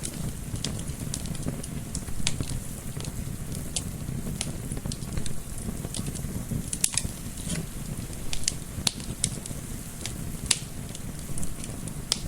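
Wood fire crackling and popping irregularly, with a steady low rumble underneath, likely gentle wind mixed in.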